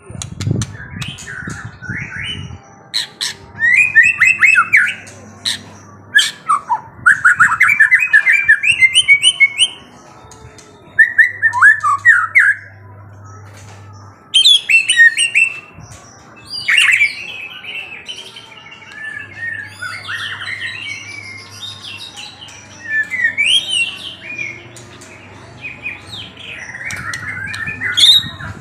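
Songbird singing in loud bursts of rapid, sweeping chirps, about ten phrases of one to three seconds each, separated by short pauses.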